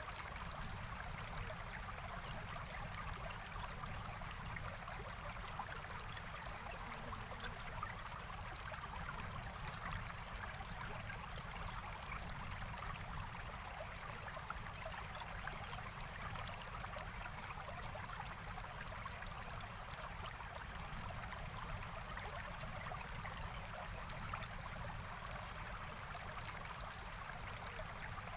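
Forest stream flowing steadily, water babbling and rushing over rocks without a break.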